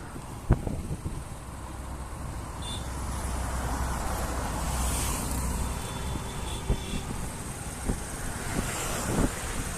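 Road traffic noise. A motor vehicle passes with a low rumble that builds through the middle and then fades.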